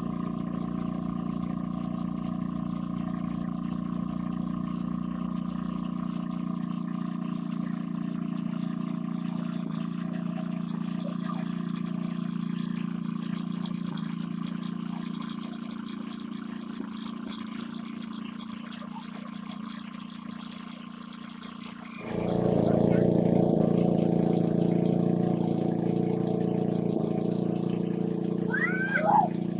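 A small motor running steadily, changing its note a couple of times and growing suddenly louder about two-thirds of the way through, with water trickling and pouring.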